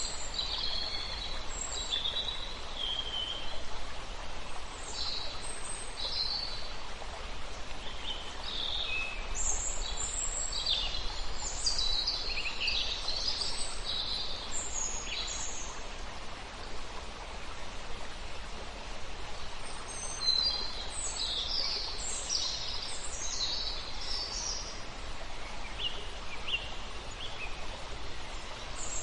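Several songbirds chirping and singing over the steady rush of a river, with bursts of calls clustered about a third of the way in and again after the middle.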